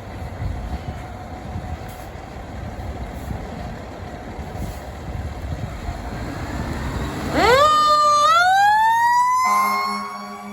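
A fire truck's engine rumbles. About seven seconds in, a mechanical siren winds up in a steep rising wail. Near the end a steady horn tone cuts in abruptly.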